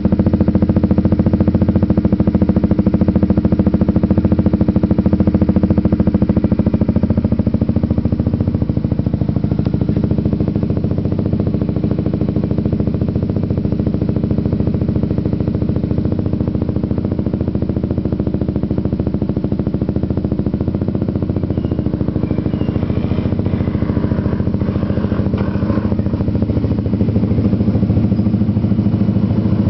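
Honda CBR150R fuel-injected single-cylinder engine running steadily at idle through a fabricated short exhaust pipe fitted with a resonator/mini-muffler, which gives a milder tone than the bare short pipe. The note drops slightly about seven seconds in and picks up a little near the end.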